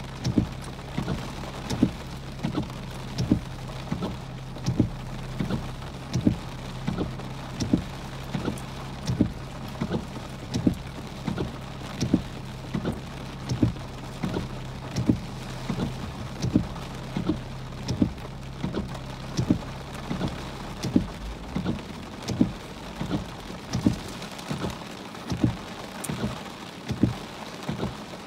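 Heavy rain beating on a car, heard from inside through the glass, with a sharp regular tap about every two-thirds of a second. A steady low hum runs under it and stops about two-thirds of the way through.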